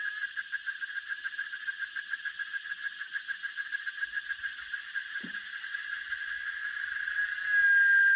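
A high trilling chorus of calling animals at one steady pitch, pulsing about six or seven times a second. Near the end it turns into a louder unbroken tone. A single soft thump comes about five seconds in.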